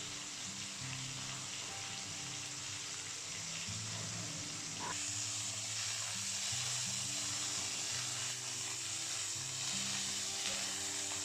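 Marinated chicken pieces sizzling as they pan-fry in hot oil over medium-low heat: a steady frying hiss that grows a little louder about five seconds in.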